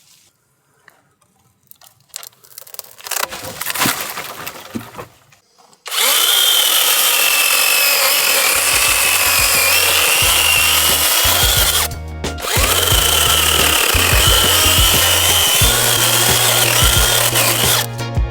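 Onevan dual-battery brushless cordless chainsaw starting up suddenly and cutting wood, its whining motor and chain dipping in pitch under load. It cuts out briefly and starts again before stopping near the end. A few faint knocks come first, and background music with a bass line comes in underneath.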